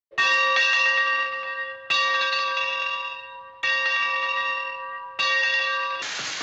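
A bell struck four times, each stroke ringing out and fading before the next. Near the end a steady hiss comes in.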